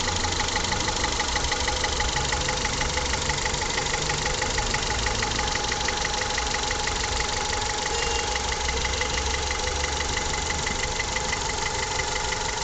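Honda F20B 2.0-litre inline-four engine idling steadily with a regular, rapid knock in time with the engine. The owner cannot tell where the knock comes from.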